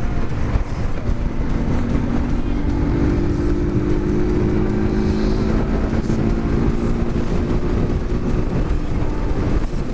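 Motorcycle engine with a straight-through exhaust, heard from the bike while riding: a steady drone at constant revs, strongest from about a second and a half in until near the end, under heavy wind buffeting on the microphone.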